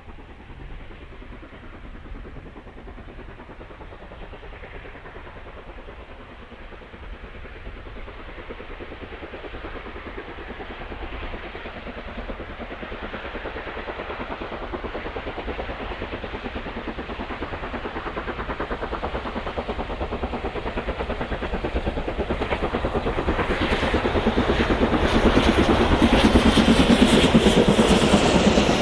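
A steam locomotive hauling a train draws closer, its sound growing steadily louder and loudest near the end.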